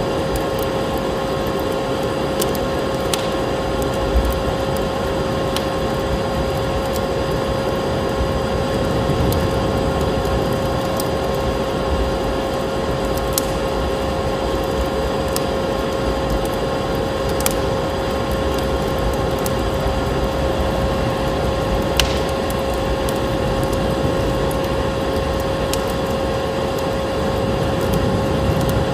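Steady vacuum-cleaner motor hum with a constant whine, over a hiss of storm wind, with sharp crackles and pops from a wood fire every second or two.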